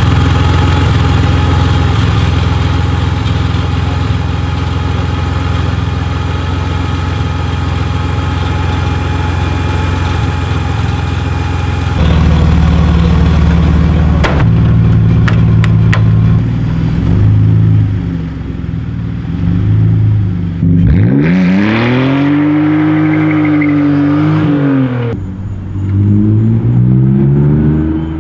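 BMW E46 engine running: a steady note for about twelve seconds, then a harder-running stretch with a few sharp clicks, and from about three-quarters of the way through it is revved up and down, once long and then in several short blips.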